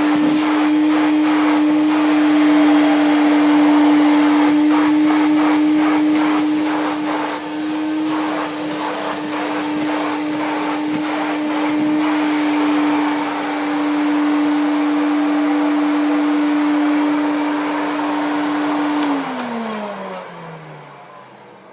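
1968 Progress Super 90 vacuum cleaner running with a steady motor whine and scattered clicks and crackles over the first half. Its motor bearings are tired with age. About nineteen seconds in it is switched off and the motor winds down, its pitch falling away.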